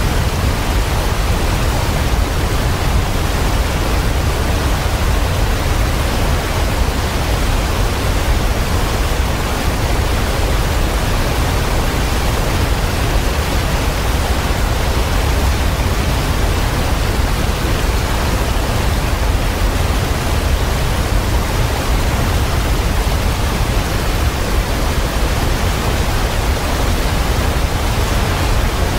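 Waterfall: a loud, steady rush of falling water with a heavy low rumble underneath.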